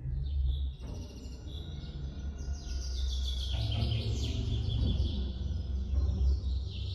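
Songbirds singing in a forest: quick chirps and rapid trills of downward-sweeping high notes, busiest from the middle of the clip on, over a steady low rumble.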